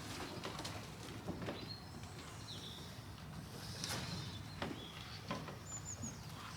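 Faint pigeon-loft sounds: a few scattered soft knocks and scuffles, with several short, faint, high bird chirps.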